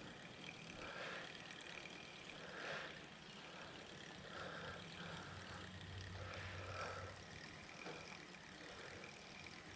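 Faint, steady hum of a distant vehicle engine, with soft scattered outdoor background sounds.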